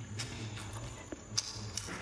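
Close-miked chewing of cured pork and glass noodles with the mouth closed: soft, wet mouth sounds with a few sharp clicks, the sharpest about one and a half seconds in.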